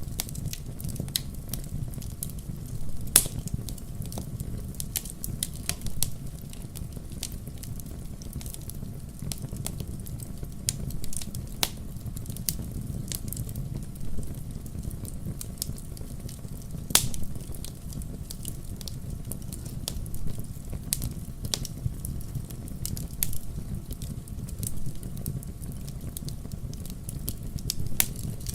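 Wood fire burning in a fireplace: a steady low rumble of flames with scattered sharp crackles and pops, a few of them much louder.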